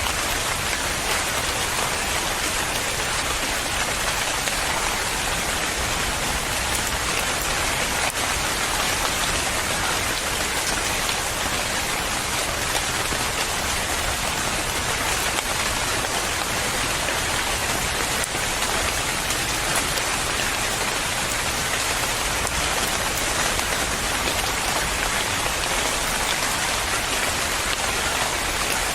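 Steady rain falling on a surface, an even hiss of drops without pause or change.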